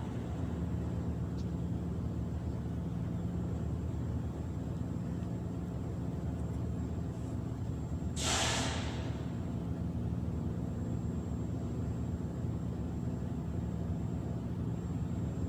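A steady low engine hum, with one short burst of hiss about eight seconds in.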